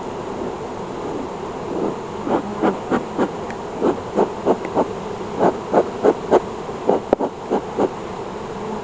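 Honeybees buzzing around an open hive: a steady hum, with a run of short, louder buzzes at about two a second from about two seconds in until near the end.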